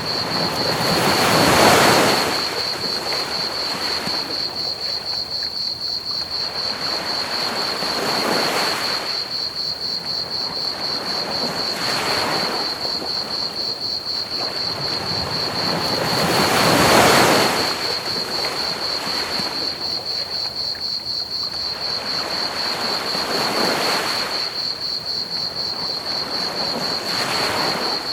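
Ocean waves breaking on a beach, swelling and washing out every few seconds, the biggest about 2 s and 17 s in, over a steady, rapid, high chirping of crickets and an even hiss of pink noise.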